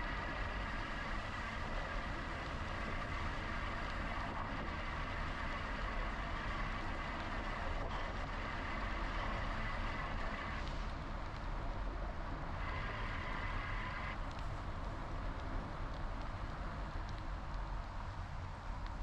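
Wind rushing over the bike-mounted action camera and tyre noise while riding an electric bike, a steady low rumble throughout. A steady whine runs underneath; it drops out about ten seconds in, comes back briefly, and stops again a few seconds later.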